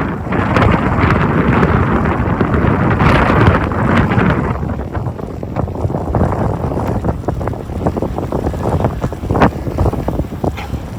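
Strong wind buffeting the microphone in a snowstorm: a heavy rushing rumble for about the first four seconds, then easing to a weaker rumble with short crackles.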